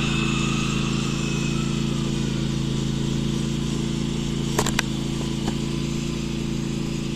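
Tractor engine running steadily at an even pitch, with a couple of short clicks about four and a half seconds in.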